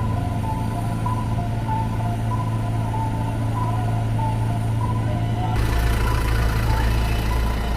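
A motor vehicle's engine running steadily, with a string of short beeping tones over it. About five and a half seconds in, a louder rush of noise and a deeper rumble come in.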